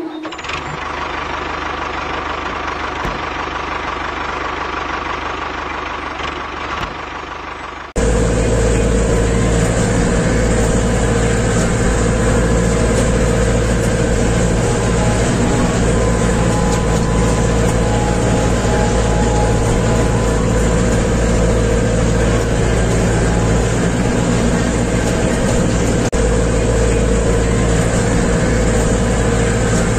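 Steady running of a motor-driven machine. About eight seconds in it cuts abruptly to a louder, deeper running sound with a steady hum.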